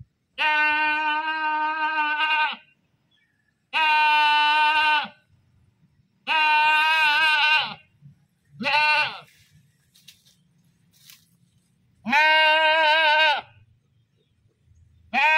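A goat bleating loudly in a series of drawn-out calls, each one to two seconds long, with a short call about nine seconds in and brief pauses between calls.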